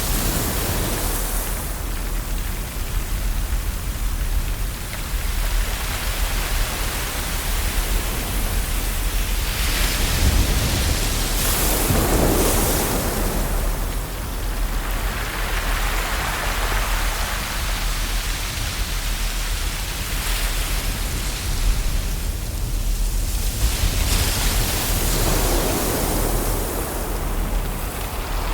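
Ocean waves washing onto a shore: a continuous rushing hiss that swells and eases in slow surges several seconds apart.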